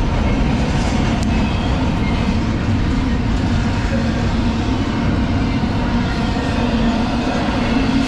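A train passing on nearby tracks, a loud steady rumble with a low hum running through it.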